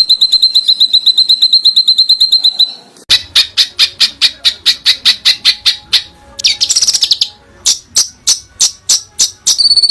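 Songbird song: a fast run of high repeated notes, about nine a second, gives way to a series of sharp clipped notes about four to five a second, broken near the middle by a short harsh buzzy burst, and then the fast repeated notes return at the end.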